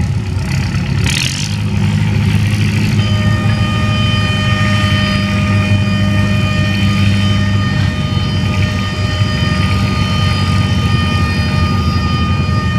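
Antique tractor engine running steadily at a constant pitch. A brief hiss comes about a second in, and about three seconds in a steady high-pitched whine sets in and holds.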